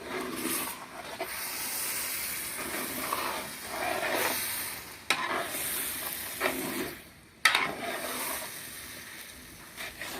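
Chicken sizzling as it is stirred in a cooking pot, the hiss swelling and fading with each stir. Two sharp knocks, the second the loudest, come about five and seven and a half seconds in.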